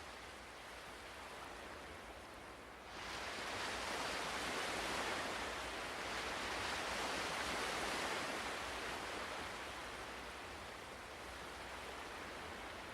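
Ocean surf washing steadily, a wave surging in and getting louder about three seconds in, then slowly ebbing away.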